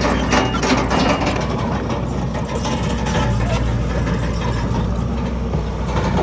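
Heavy earthmoving machine's diesel engine running steadily with a low rumble. A reversing alarm beeps twice in the first second, and there is some metal clanking early on.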